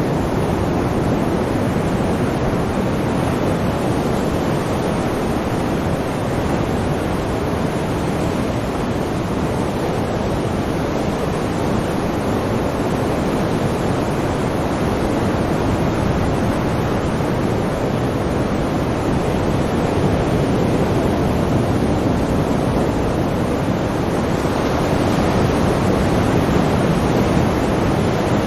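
Sea waves breaking and washing on the shore in a steady, continuous surf noise that swells a little louder near the end.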